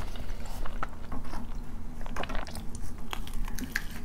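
Chewing and biting into a fried samosa close to the microphone: many small, irregular crunches and clicks of the pastry.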